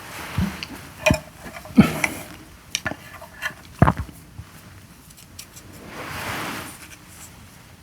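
Eating utensils knocking and clinking against dishes: about five sharp knocks in the first four seconds. A longer soft rushing noise follows about six seconds in.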